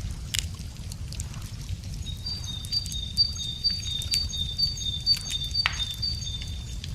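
Wood campfire crackling with frequent sharp pops and snaps over a low steady rumble; from about two seconds in, a small bird sings a high two-note phrase over and over.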